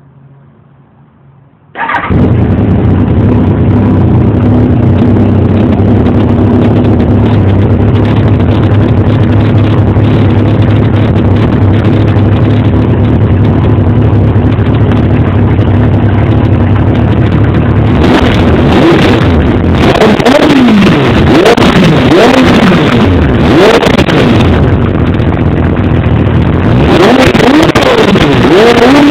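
Kawasaki ZX-7R inline-four engine firing up about two seconds in and idling loudly and steadily through a shortened Laser Hotcam exhaust with some of its wadding removed. In the second half it is blipped up and down repeatedly in short revs.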